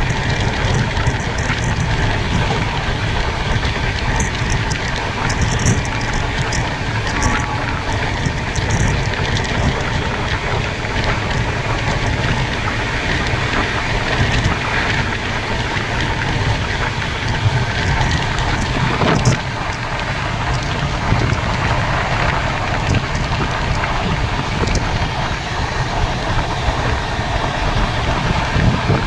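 Passenger express train running at speed, heard from the open side of a coach: a steady rumble and rattle of wheels on the rails with wind rushing over the microphone, and scattered small clicks.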